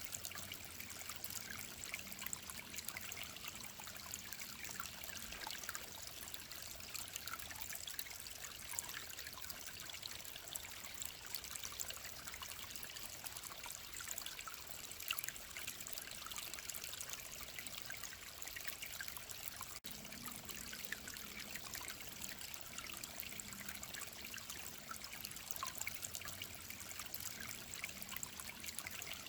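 Mountain stream trickling and babbling steadily, a continuous watery hiss full of small splashes.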